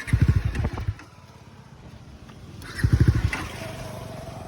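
Motorcycle engine sounding in two short bursts, the second about three seconds in, each with a fast even pulsing. A quieter steady hum follows.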